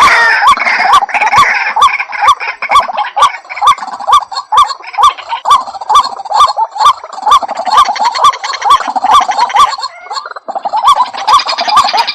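White-breasted waterhen (ruak-ruak) calling: a fast, even series of repeated hooked notes, about three a second. Several birds' calls overlap at the start and again after a short break about ten seconds in.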